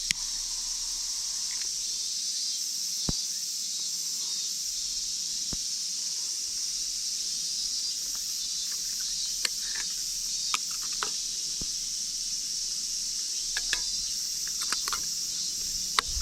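Steady high-pitched insect chorus, with scattered sharp clicks and taps, more of them near the end.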